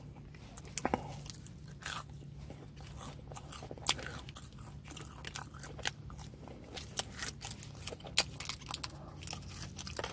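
Close-up chewing and crunching of a crispy fried chicken nugget, with irregular wet mouth clicks, over a low steady hum.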